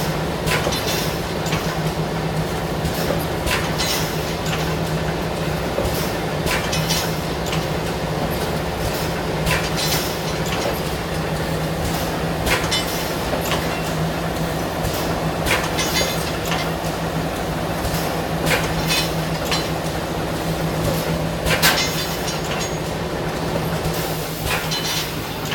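Automatic pneumatic steel wire mesh welding machine running, with a steady electrical hum under irregular sharp clacks and hisses from its air-driven clamps and weld strokes.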